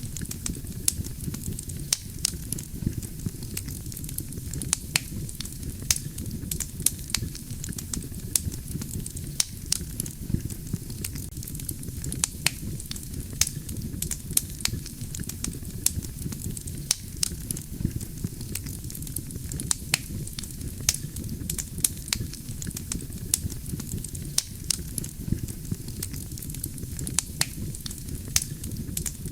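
Wood fire burning: a steady low rumble of flames with frequent sharp crackles and pops of burning logs, several a second.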